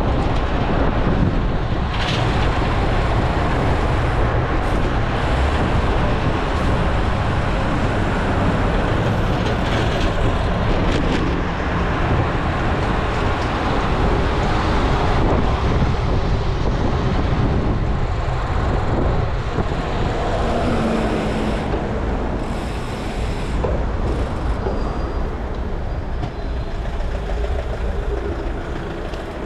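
Steady rumble of wind over an action camera's microphone on a moving road bike, mixed with road traffic noise. The level eases slightly in the last few seconds.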